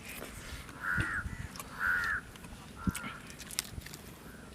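A bird calling three times, about a second apart, with a couple of soft knocks in between.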